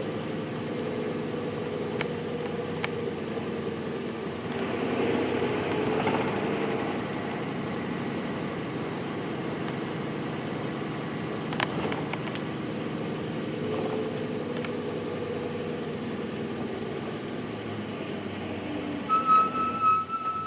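Nissan Diesel Space Runner RM (KC-RM211) mid-size bus's FE6 diesel engine heard from inside the cabin while the bus drives. It pulls harder from about four and a half seconds in, then runs steadily. Near the end a loud pulsing electronic buzzer sounds.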